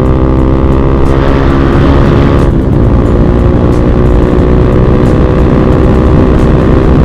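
Bajaj Pulsar NS200's single-cylinder engine running under way, its exhaust holding a steady note. About two and a half seconds in the note breaks off, then continues rougher and less even, with wind noise.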